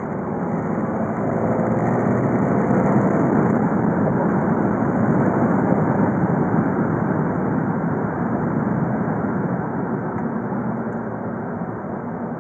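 VW Golf V's 2.0 TDI four-cylinder turbodiesel running under way, with tyre and road noise. It grows louder about a second in and eases off after about seven seconds.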